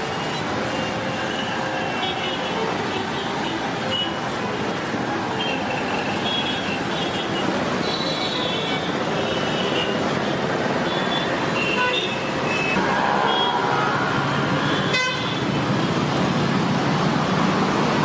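Busy street noise: steady traffic with short horn toots scattered throughout and some voices.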